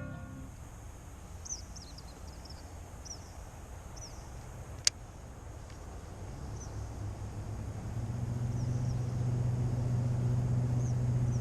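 Outdoor ambience with short high bird chirps, a single sharp click about five seconds in, and a low steady engine hum that swells from the middle on and holds.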